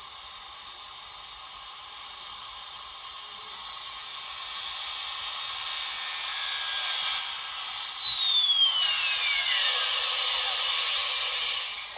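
A model steam locomotive's sound decoder plays its shutdown sequence through the locomotive's small speaker. A steam hiss builds steadily, and a falling whine glides down from high to low about seven seconds in.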